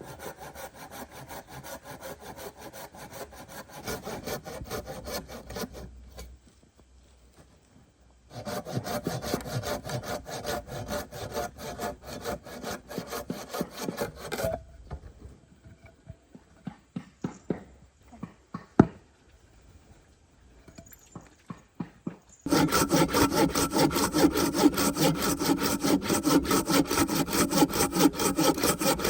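Hand saw cutting wood in rhythmic back-and-forth strokes, in three bouts with short pauses, the last bout the loudest. A few scattered knocks fall between the second and third bouts.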